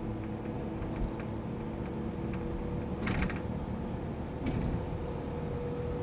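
Cabin noise of a GAZ Sobol van driving on the highway: a steady engine and road rumble with a thin steady whine, and brief rattles about three seconds in and again near four and a half seconds.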